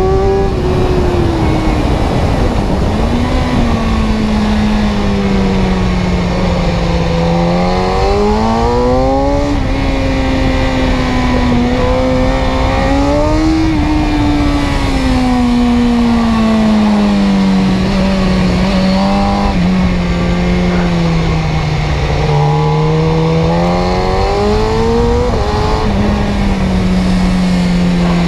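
Car engine running steadily, its pitch sliding slowly down and then climbing back up several times as engine speed changes, with jumps up about 9 and 25 seconds in.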